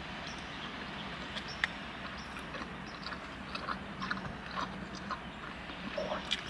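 A person chewing food close to the microphone, with scattered wet clicks and smacks of the mouth over a steady low hiss.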